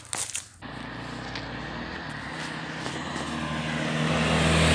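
An approaching car and motorcycle, their engines growing steadily louder from about three seconds in as they come up the road.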